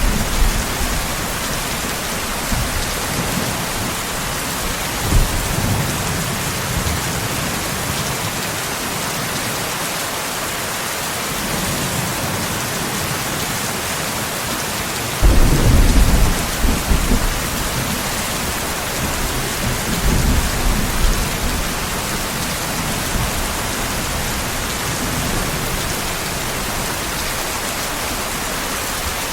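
Steady rain falling in a thunderstorm, with several low rolls of thunder. The loudest roll breaks suddenly about halfway through and rumbles for a couple of seconds.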